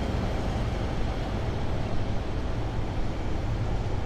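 Heavy military vehicles driving past in a column, a steady low engine and road rumble.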